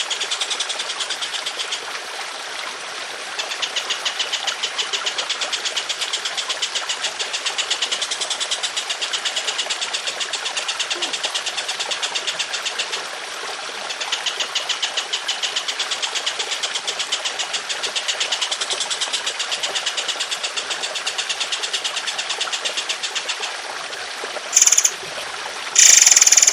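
A bird's long, rapid, rattling trill, rendered as evenly repeated notes, played over the steady trickle of running water. The trill pauses briefly twice and ends in two short, louder, shrill bursts.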